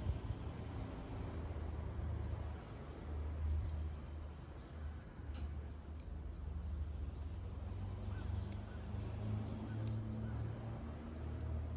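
Wood fire burning in a rusty can, with faint scattered crackles over a low wind rumble on the microphone; a few short bird chirps are heard.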